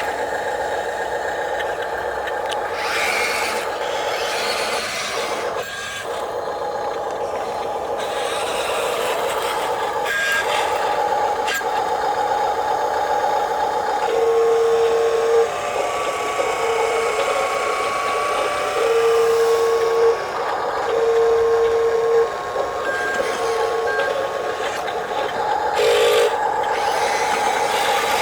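Small electric motors of radio-controlled toy construction vehicles whining steadily. From about halfway, a series of electronic beeps of uneven length cuts in and out.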